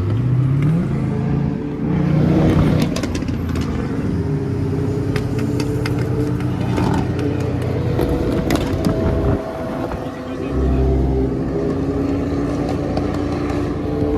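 Car engine revving up, its pitch rising at the start and surging louder about two seconds in, then running steadily under way, with a brief low rumble near the two-thirds mark.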